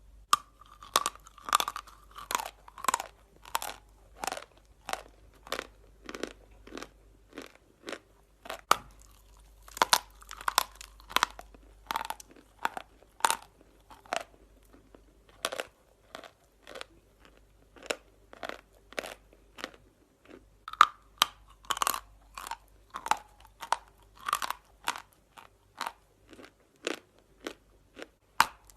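Natural chalk being bitten and chewed close to the microphone: a steady series of sharp, dry crunches, about one to two a second.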